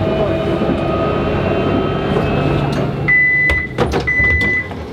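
Tram running with a motor whine that fades out as it stops. About three seconds in, a high steady warning beep starts, repeating in half-second tones with short gaps, with a few sharp clunks, typical of tram door warning beeps at a stop.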